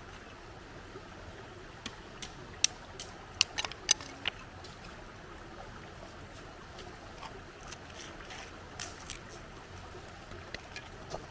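Steady flowing water of a river, with scattered sharp clicks and pops over it, the loudest cluster about two to four seconds in.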